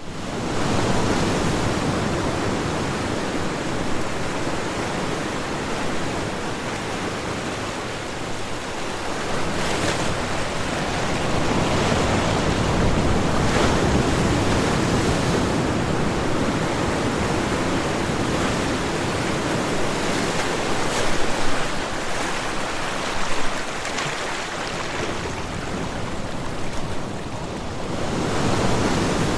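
Ocean waves breaking and washing on a shore: a continuous rushing surf that swells and eases every several seconds.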